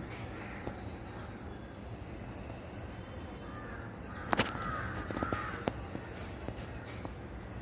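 A crow cawing about halfway through, over a steady low hum. Two sharp clicks come just before the caw and a few lighter knocks follow it.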